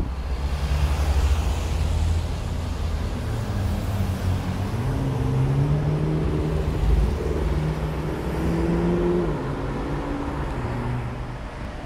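McLaren MP4-12C's twin-turbo V8 accelerating along the road, its engine note climbing in pitch in steps as it shifts up, then dropping away near the end. City traffic noise runs underneath.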